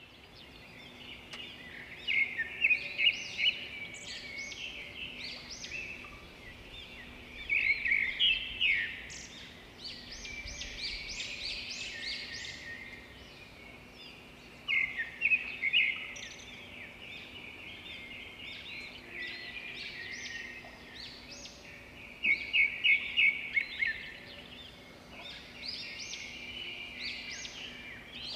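Birdsong: a small bird singing repeated bursts of rapid high chirps, several seconds apart, over a faint steady hum.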